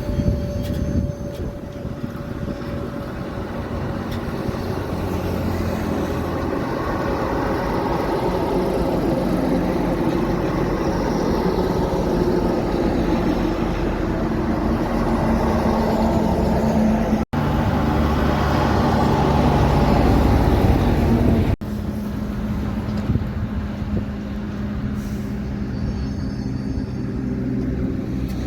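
Trucks driving past on a road, with steady engine and tyre noise that rises and falls. The sound breaks off for an instant twice, about two-thirds of the way through.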